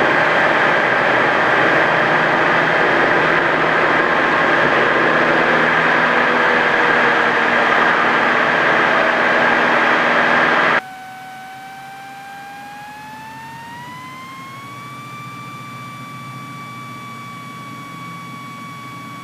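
Cessna 172's four-cylinder piston engine and propeller running steadily, heard loud inside the cockpit. About eleven seconds in the noise drops sharply to a much quieter level, and a tone then rises in pitch over a few seconds and holds, as the engine speeds up.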